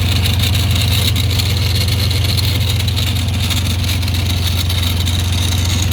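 Ford 2600 tractor's gasoline engine running steadily at a low, even speed, fed by a newly fitted aftermarket carburetor that has cured its failure to start.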